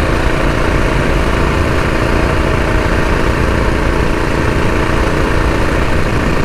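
Predator 212 single-cylinder four-stroke engine on a mini bike, running steadily under throttle while being ridden up a slope.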